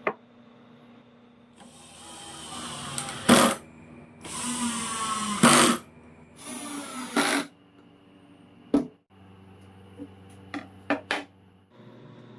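Power drill running in three short bursts, its pitch changing with the trigger, followed by several sharp clicks.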